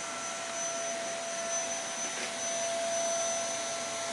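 Vacuum cleaner running steadily: an even rushing hiss with a constant high whine.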